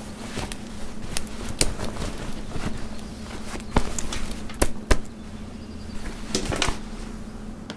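A scattering of sharp clicks and knocks over a steady low hum, with the loudest knocks a little before and just after the middle.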